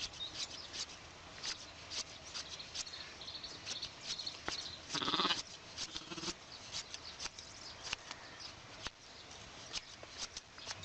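A sheep bleats loudly once, about halfway through, followed by a shorter, lower call, among frequent sharp clicks and knocks.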